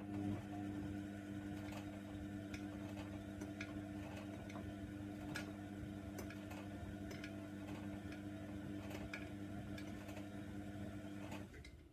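Hoover Nextra washer-dryer's motor turning the drum with a steady hum, while the load inside ticks and knocks irregularly against the drum; the tumble stops near the end, one turning spell between the pauses of the wash cycle.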